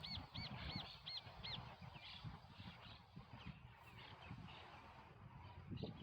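A bird calling outdoors: a quick run of about five short, arched, repeated notes in the first second and a half, then a few scattered fainter calls, over a faint, uneven low rumble.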